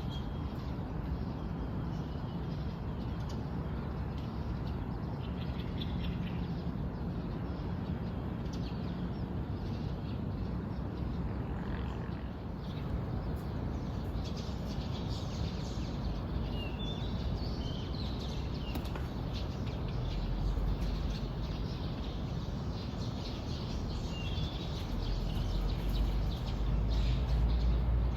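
Wild birds chirping now and then with short, high calls, over a steady low rumble that grows louder in the last few seconds.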